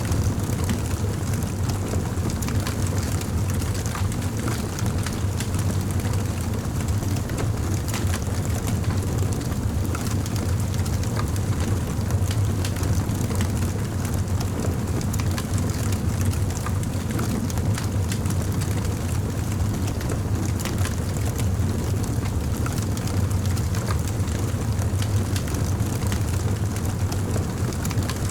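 Campfire burning: a steady low rumble from the flames with scattered sharp crackles and pops from the burning wood.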